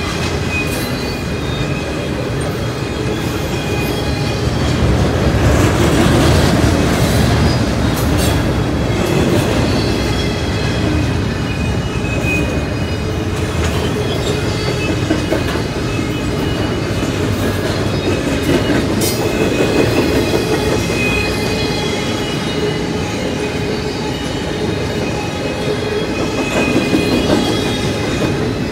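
Double-stack intermodal freight cars rolling past: a steady rumble and clatter of wheels on rail, with steady high ringing tones running throughout.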